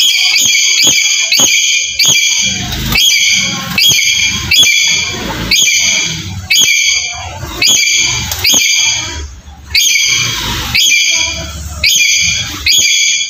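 Black-capped lory calling over and over: short, loud, shrill squawks, about two a second, each a bright ringing cluster of high notes.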